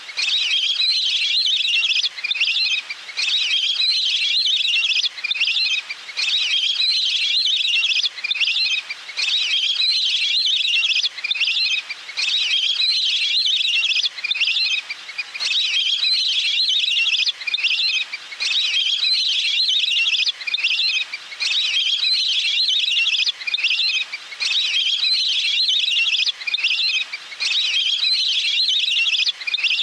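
Recorded water bird call played as a hunting decoy: a high, fast trill repeated in phrases of a second or two with brief breaks between them, over and over like a loop.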